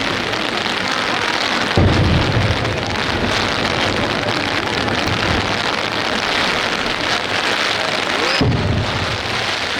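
Heavy rain falls steadily while two aerial firework shells burst with deep booms, one about two seconds in and one near the end.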